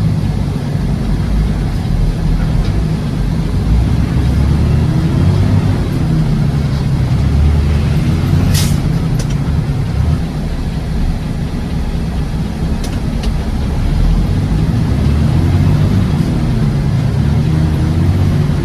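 Truck engine and road noise heard while driving: a steady low rumble, with engine pitch rising and falling a few times and a short hiss about halfway through.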